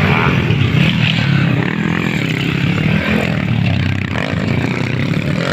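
Motocross dirt bikes running on the track, their engines revving continuously and loudly.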